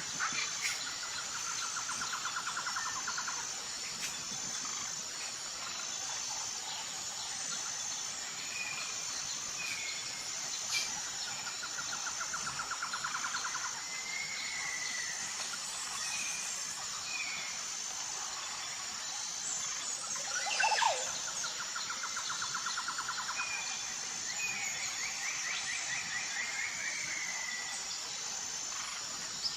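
Tropical forest ambience: insects keep up a steady, high, pulsing drone while birds call over it. One bird repeats a buzzy trill lasting about two seconds three times, and short chirps and a longer trill are scattered between.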